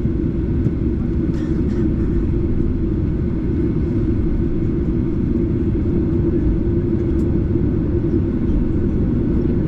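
Steady cabin noise of a Boeing 737-8's CFM LEAP-1B engines running at low power, heard from a seat near the engine: a loud, even rush with a steady low hum.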